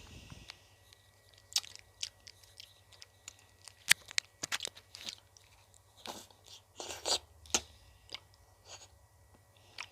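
Close-up eating sounds of ice cream: irregular crisp crunching bites and chewing, with the sharpest crunch about four seconds in.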